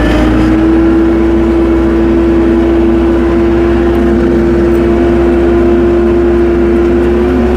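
Tractor engine running steadily at raised speed while driving, holding one even pitch that edges up slightly near the end.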